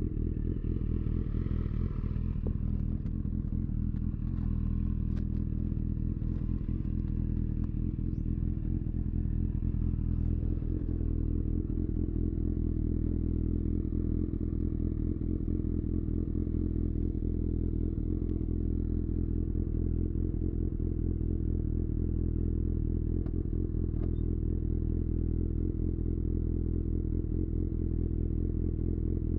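2018 Honda CB1000R's inline-four engine, breathing through a full-system Black Widow exhaust, running at a steady, unchanging engine speed.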